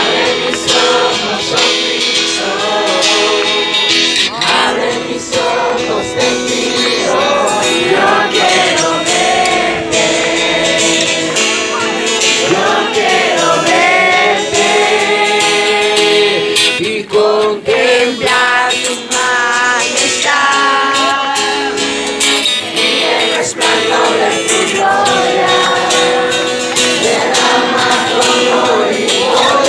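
Christian worship song, several voices singing a melody together over guitar accompaniment.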